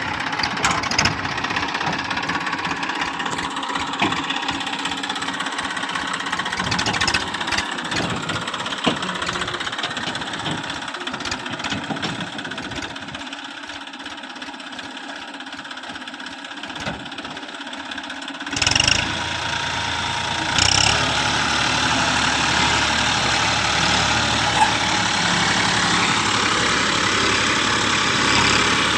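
TAFE 241 DI tractor's diesel engine running steadily, with two short loud jolts about two-thirds of the way through, after which it runs louder.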